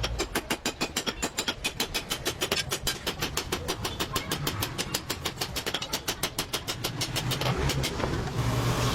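A small engine running with an even, rapid beat of about six strokes a second, fading out near the end.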